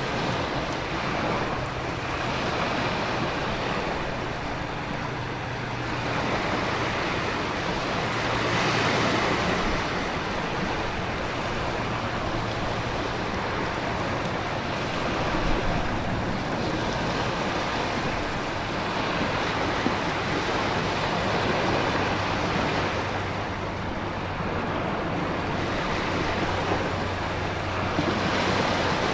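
Hurricane storm ambience: a dense, unbroken wash of heavy rain and wind with ocean surf swelling and easing every few seconds, over a low steady drone.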